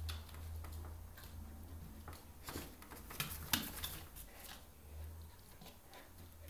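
A chow chow and a Samoyed scuffling in play, heard as a run of light clicks and taps, loudest around the middle.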